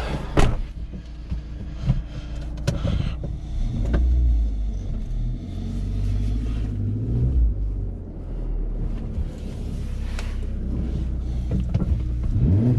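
Kia Picanto's engine running and revving in low rumbling pushes as the car is driven up a car transporter's loading ramp, with a few sharp clunks.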